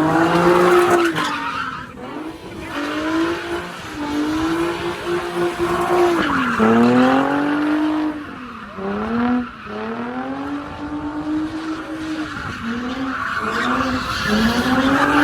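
A car engine revving hard, its pitch holding high then dipping and climbing back again several times, with the tires squealing and skidding.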